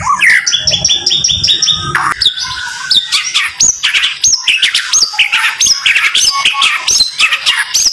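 White-rumped shama (murai batu) singing fast runs of short, sharp whistled notes repeated about five times a second, then a string of hooked, upswept whistles: the rapid-fire 'tembakan' style of song.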